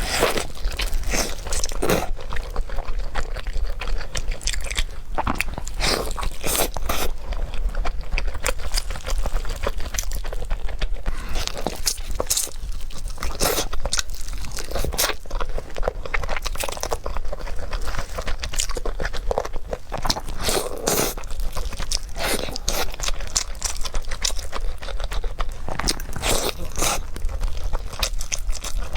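Close-miked eating: a person biting and chewing dessert, with a dense run of crisp crunching and crackling clicks throughout.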